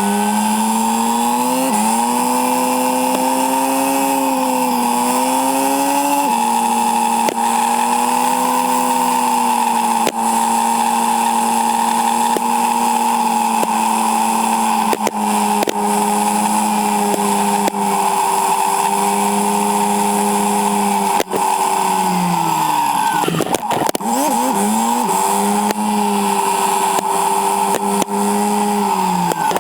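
Yamaha Silverado's 1700cc V-twin engine running under way, with steady wind noise, played back sped up so its note sits high. Its pitch climbs and steps down at gear changes early on, then falls away about 23 seconds in as the bike slows, and climbs again.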